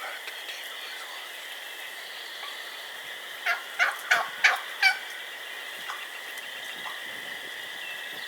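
A wild turkey hen gives a raspy plain yelp: a run of five loud yelps, about three a second, each note dropping sharply in pitch. It is a plain yelp bordering on an excited yelp. A steady high-pitched hum sounds underneath.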